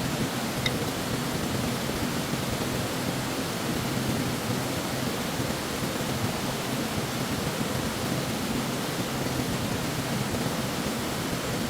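Steady, even rushing of stream water. A brief faint high blip comes less than a second in.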